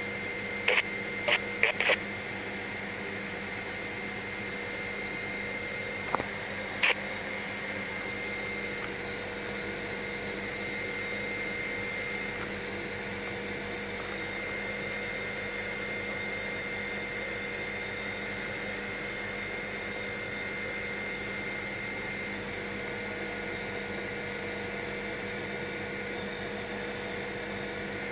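Steady drone of a helicopter in cruising flight heard from inside the cabin, with a steady high whine over it. A few short sharp clicks come in the first seven seconds.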